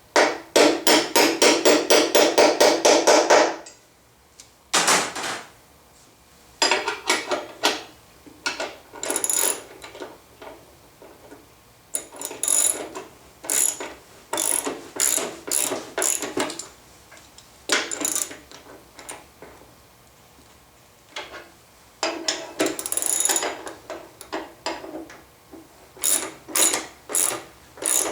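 Socket ratchet clicking as a bolt is tightened: a fast even run of clicks, about four a second, for the first few seconds, then clicks in short irregular bursts with pauses between.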